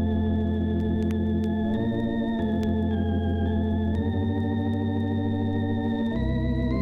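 Organ music: slow, held chords with a wavering vibrato, the chord changing several times.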